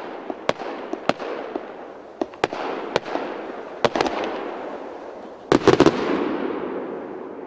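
Consumer firework battery (a 100-shot cake) firing its last shots: single sharp bangs at uneven intervals, each followed by crackling that fades. A rapid cluster of bangs about five and a half seconds in is the finale, and crackling trails off after it.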